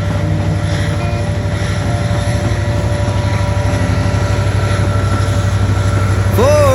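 Propeller aircraft engine droning steadily with a fast, even low pulsing. A man's singing voice comes in near the end.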